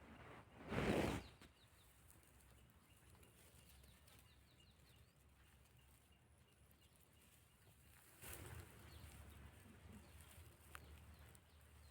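Faint, high, short chirps of a baby bird, repeated over a few seconds. A brief burst of rustling noise comes about a second in, and another stretch of noise starts past the middle.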